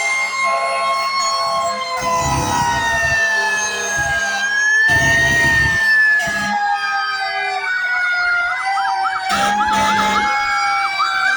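Several fire truck sirens wailing at once, each slowly rising and falling at its own pitch; past the middle one switches to a fast yelp. Three short, deep blasts cut in about two, five and nine seconds in.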